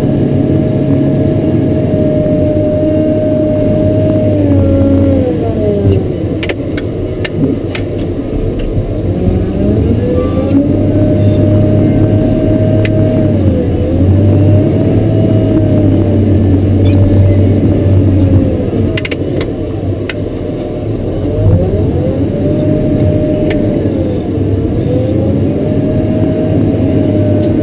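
Cat 140K motor grader's diesel engine running steadily. Its pitch sags and climbs back about four times as the engine is loaded or the throttle is eased, with a few short clicks and rattles in between.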